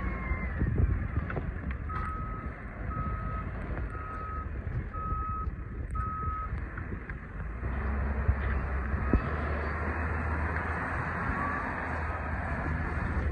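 Vehicle reversing alarm beeping five times, about once a second, over the steady low rumble of an engine, which grows louder about halfway through.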